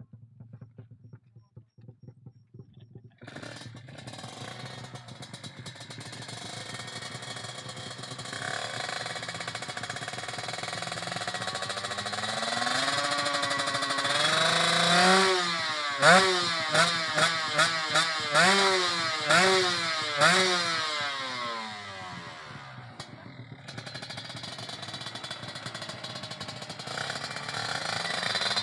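Small tuned motorcycle engine coming in about three seconds in and climbing steadily in revs. Midway there is a run of about six quick throttle blips, each a sharp rise and fall in pitch. It then drops back and revs up again near the end.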